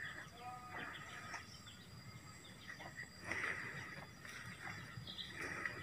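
Faint outdoor ambience with scattered bird chirps, the clearest a little past the middle.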